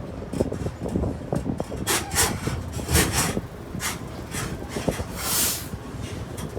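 Moving amusement-park tram rumbling and rattling as it rides along the road, with several short bursts of hiss over the top.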